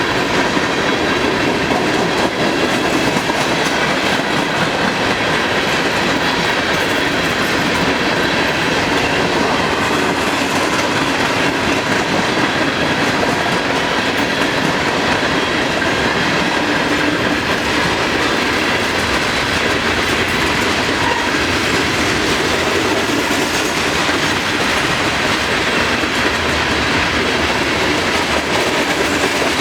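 Freight cars of a long manifest train rolling steadily past: a continuous wheel-on-rail rumble with clickety-clack over the rail joints and faint thin high tones ringing from the wheels.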